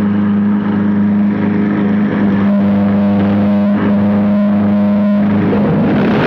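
An engine running loudly at a steady speed. Just before the end its pitch begins to rise as it picks up speed.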